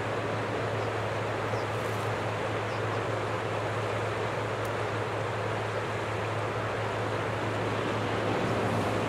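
Steady noise from a Boeing airliner's jet engines at an even level, with a constant low hum underneath.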